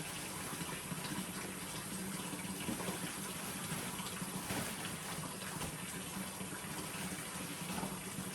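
Water running steadily, pouring and splashing.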